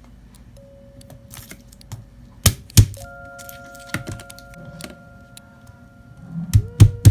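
A series of sharp clicks and knocks, with two loud knocks about two and a half seconds in and more near the end, over faint steady tones.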